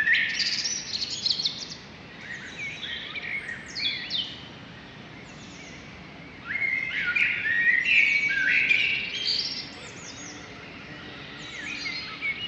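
Songbirds singing, several overlapping songs of quick, sliding chirps in bursts that are loudest about six to nine seconds in, over a faint steady background.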